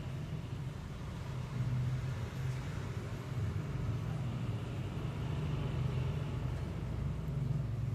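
Steady low hum with a faint background hiss, like a motor running.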